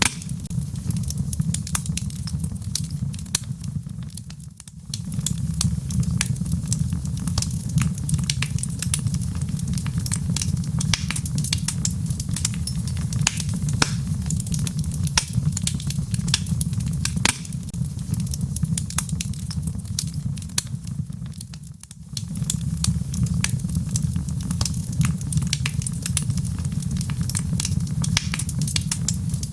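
Burning logs in a fireplace crackling, with dense sharp pops and snaps over a steady low rumble of the flames. The sound dips briefly twice, about five seconds in and again about twenty-two seconds in.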